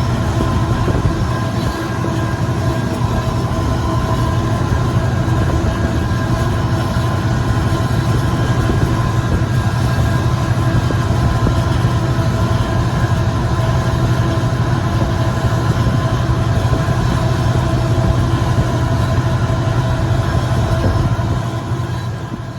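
Freight train rolling past: a steady rumble of cars on the rails with a few held ringing tones, fading out near the end.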